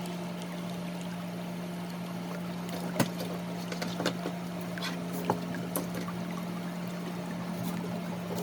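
Grooming scissors snipping through dog hair: a few sharp clicks scattered through the middle, the loudest about three seconds in, over a steady low machine hum.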